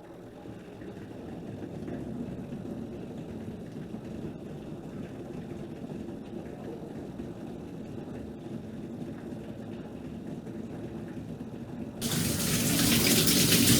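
Water running in the shower plumbing as a low rush. About twelve seconds in, water suddenly gushes out of the shower with a loud, steady spray as the hot line comes through.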